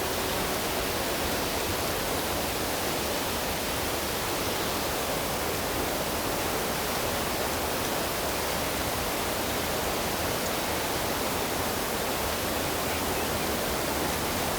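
Steady, unbroken rush of flowing water, an even hiss with no surges or pauses.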